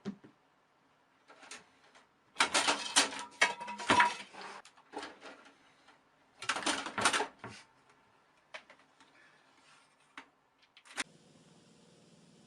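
Two bursts of rapid clattering and rattling, each lasting a second or two, with a few scattered single clicks around them.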